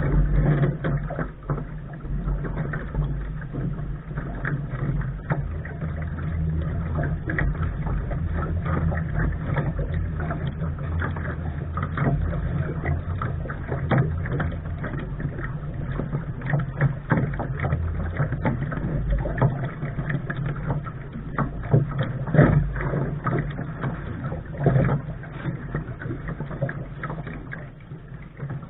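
Wind rumbling on the microphone and water splashing and rushing against the hull of a Lark sailing dinghy under way, with irregular slaps; a couple of louder splashes come late on.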